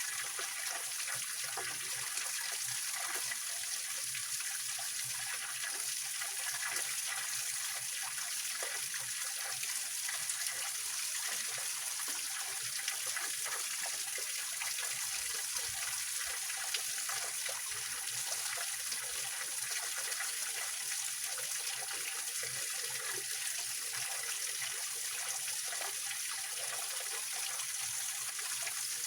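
Small waterfall on a rocky mountain stream, water splashing and trickling over rocks in a steady hiss.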